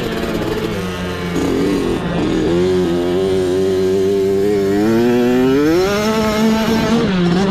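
Small mini-bike dirt bike engine under way, its revs rising and falling with the throttle. The revs dip about a second in and pick up again. They hold steady, then climb near the end before easing off.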